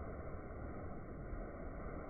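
Faint, steady background noise with no distinct event.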